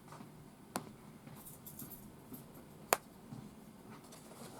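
Faint room tone with two sharp clicks about two seconds apart, the second the louder.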